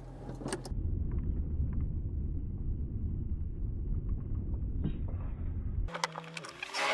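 Car driving, with a steady low road and engine rumble heard from inside the cabin. Near the end it cuts off suddenly and background music starts.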